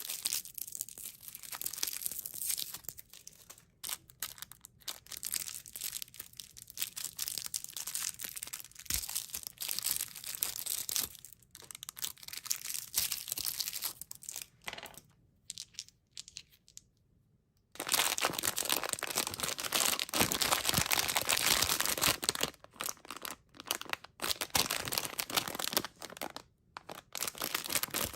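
Candy wrappers and bags crinkling and tearing as packets are opened, in irregular rustles. There is a short lull about two-thirds of the way in, then denser, louder crinkling.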